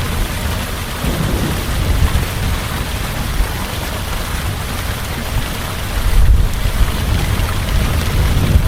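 Heavy rain falling steadily, with low rumbles of thunder under it, the strongest swelling about six seconds in.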